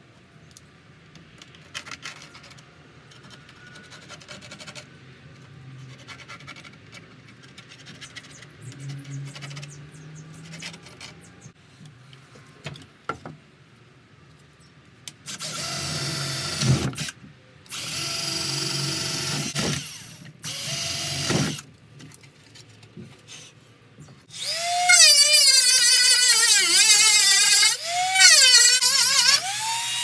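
Light handling of wooden parts, then a cordless drill runs in three short bursts, boring into a wooden panel. From a little past two-thirds of the way in, a rotary tool runs steadily while it cuts a round opening in the wood, its pitch sagging and recovering as it bites.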